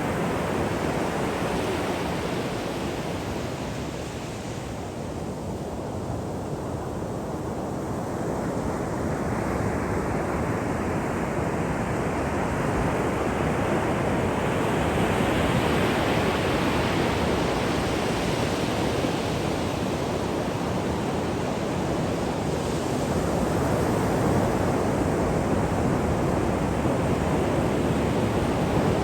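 Ocean surf breaking on a shore: a continuous wash of waves that swells and eases every several seconds.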